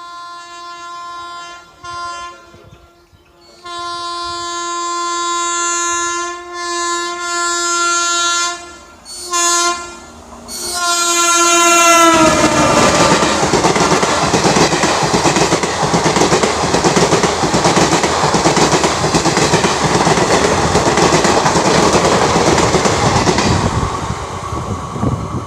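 Indian Railways locomotive horn blown several times as the train closes in: a long blast, a short one, a long one, and two more short ones, the last falling in pitch as the engine reaches the camera. The train then rushes past with loud wheel clatter over the rail joints, fading near the end.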